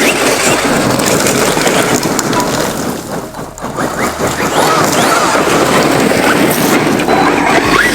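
Traxxas X-Maxx RC monster truck with a 1600 kV brushless motor driving hard, its motor whine rising in short sweeps as the throttle is worked, over a steady rush of tire and ground noise.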